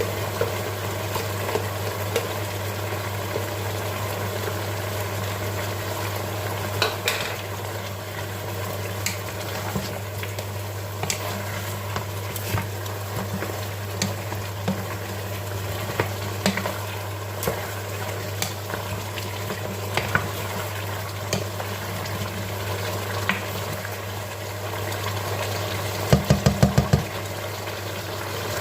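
A pot of okra soup being stirred with a spoon over a steady low hum, the spoon clicking now and then against the pot. Near the end comes a quick run of about six sharp knocks.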